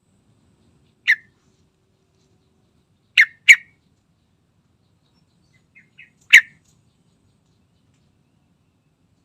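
Yellow-vented bulbul giving short, sharp single call notes with long pauses between them: one, then a quick pair about a third of a second apart, two faint notes, then one more loud note.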